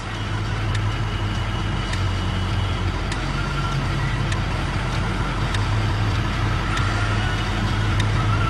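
Railway snow plow train running steadily through deep snow: a steady low diesel engine hum under a constant rushing noise, with scattered light clicks.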